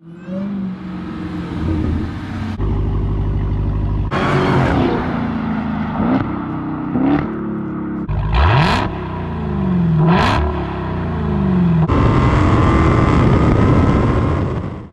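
Dodge Charger Hellcat Redeye's supercharged 6.2-litre Hemi V8 with its mid mufflers deleted, running loud in several short clips edited together. The engine revs up hard several times, and in at least one clip the pitch falls as the car passes by.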